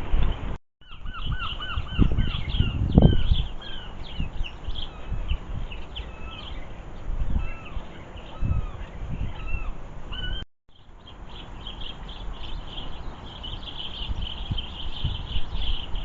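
Small garden birds chirping and twittering in many short, quick calls, with wind gusting on the microphone in low rumbles.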